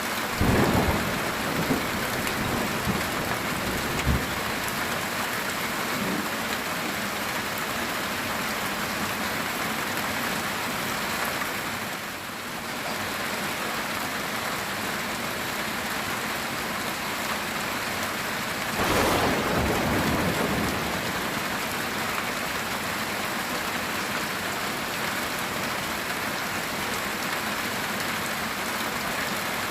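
Heavy rain drumming steadily on a metal tin roof, with rumbles of thunder just after the start and again about two-thirds of the way through.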